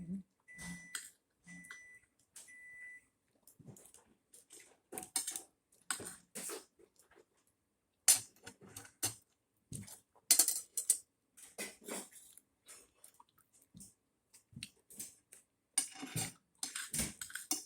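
Eating sounds: cutlery clicking and scraping on a plate, with chewing, in a scatter of short irregular clicks and clatters. A few short, high electronic beeps sound in the first three seconds.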